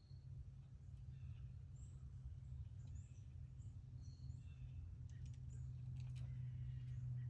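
Faint backyard ambience: a steady low hum with scattered short, high bird chirps and a few sharp clicks in the second half.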